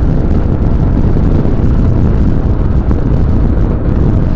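Motorcycle running at highway cruising speed, about 100 to 110 km/h: a steady, loud rush of wind, engine and road noise on an action camera's microphone.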